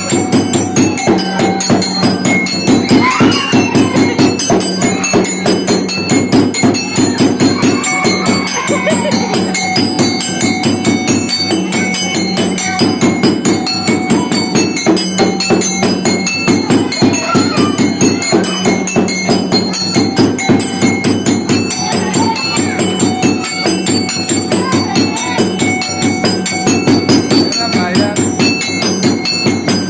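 Traditional Indonesian street-show music with a fast, steady percussion beat and jingling bells, playing without a break.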